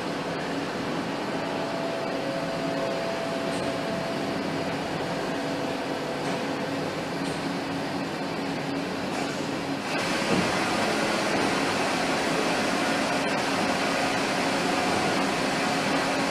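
Steady hum and hiss of factory machinery and ventilation, with a few held tones running through it. About ten seconds in the sound changes abruptly and gets a little louder.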